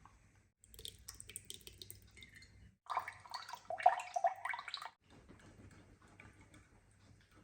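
Liquid pouring and gurgling for about two seconds, a few seconds in, after some light clicking and handling sounds.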